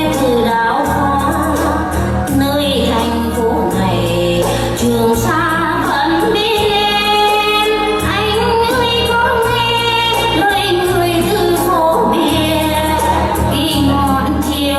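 A woman singing a melodic song over instrumental backing with a steady low bass line.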